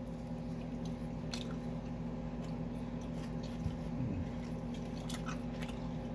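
A person chewing a mouthful of pizza close to the microphone, with small wet mouth clicks, over a steady low hum.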